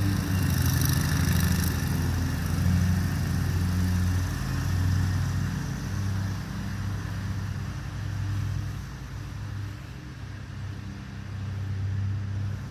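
Lawn mower engine running steadily, its hum growing fainter after about eight seconds and louder again near the end as it moves across the grass.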